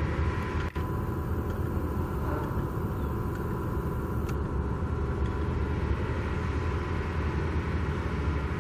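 Steady low outdoor rumble, like road traffic or wind on the microphone, with a momentary dropout a little under a second in.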